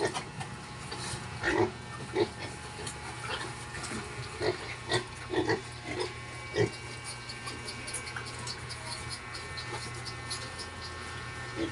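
Piglets about six weeks old grunting in short calls, most of them in the first seven seconds, followed by a run of quick light clicks.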